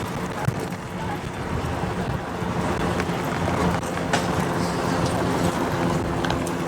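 City street traffic noise with a vehicle engine running steadily nearby, its hum growing stronger about halfway through, and a few light clicks.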